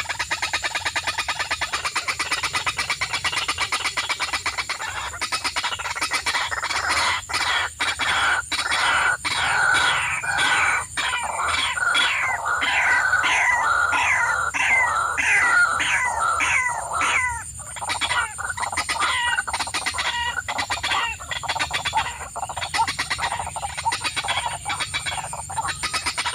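A bird calling over and over in short notes that slide downward, about two a second, for most of the stretch. Underneath runs a fast, even ticking and a steady high tone.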